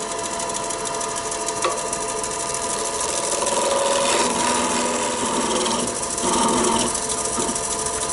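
Roughing gouge cutting a spinning Irish elm blank on a wood lathe: a steady, rough scraping with a steady tone from the running lathe underneath, as the blank is smoothed toward round.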